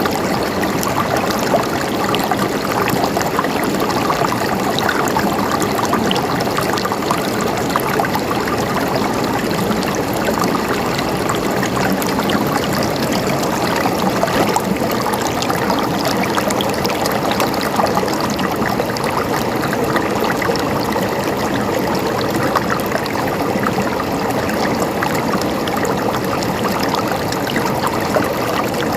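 Running water in a stream, a steady babbling and gurgling over stones that does not change.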